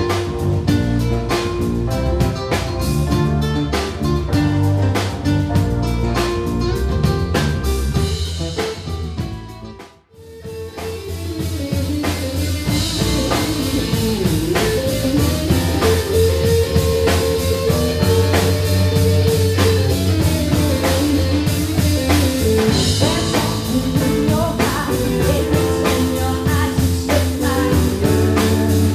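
A rock band playing live: electric guitar, bass and drum kit with a singing voice. The music breaks off sharply for a moment about a third of the way through, then starts up again.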